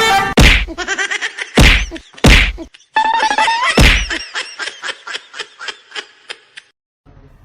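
Several loud whacks and thuds, with rising and warbling pitched tones between them, then a quick run of fading clicks.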